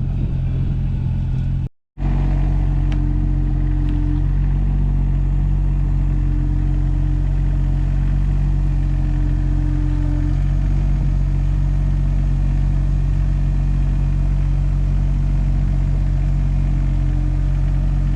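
Engine of the machine used for the fence work running steadily at a constant speed. The sound cuts out completely for a moment about two seconds in.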